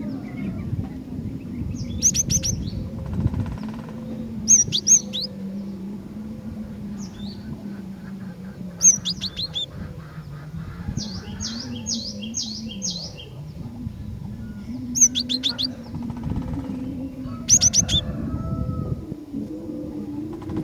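Female cinereous tit calling in short bursts of high, quickly falling chirps, about seven groups, one a run of five notes, over a steady low drone.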